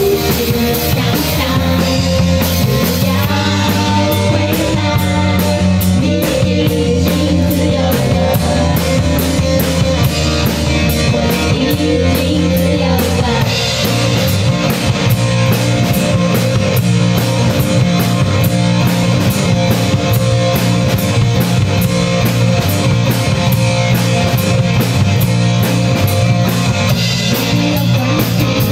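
Live rock band playing a song: drum kit keeping a steady beat under electric guitar and bass.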